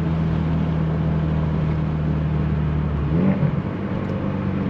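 Car engine and road noise heard from inside the cabin while driving, a steady drone that changes about three seconds in, when the engine pitch rises.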